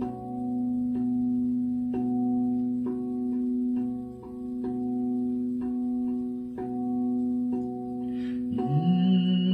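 A singing bowl's steady ringing tone under a slow, even run of struck tuned notes, about two a second, each ringing on. Near the end a voice comes in humming a low note.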